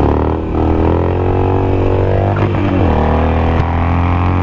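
2007 Harley-Davidson Nightster's 1200 cc V-twin accelerating under the rider. The engine pitch climbs, drops sharply about two and a half seconds in as he shifts up a gear, then climbs again.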